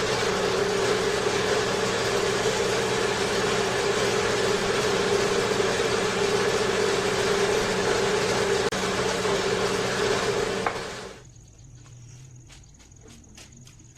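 Electric power tool motor running steadily at full speed for about eleven seconds, then winding down and stopping. A few sharp clicks follow near the end.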